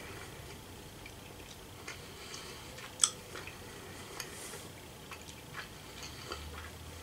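Faint, scattered wet mouth clicks and smacks from chewing a gummy candy, with one sharp click about three seconds in.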